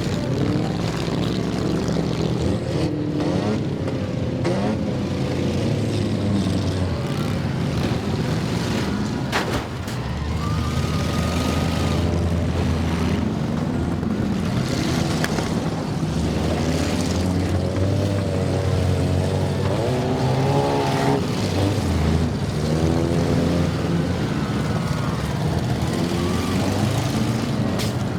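Several demolition derby cars' engines running and revving hard, rising and falling in pitch, with occasional sharp knocks of impacts.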